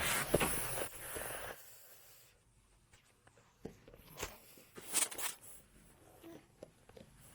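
Rustling of clothes and bedding as a baby crawls over a person lying down, fading out after about a second and a half, then a few soft knocks and clicks from her movements.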